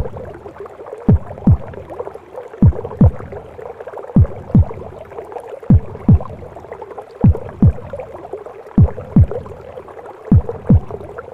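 Womb-sound recording of a heartbeat: low double thumps (lub-dub), each falling in pitch, about one pair every second and a half. Under them is a steady whooshing, gurgling noise like sound heard inside the womb.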